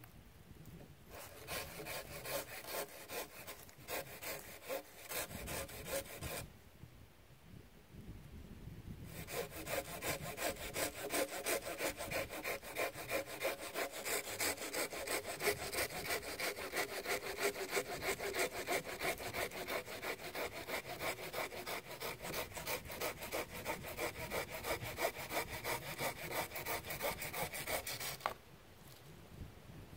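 Hand saw cutting through wood with quick, regular back-and-forth strokes. A short bout is followed by a pause, then a long steady run of strokes that stops abruptly near the end.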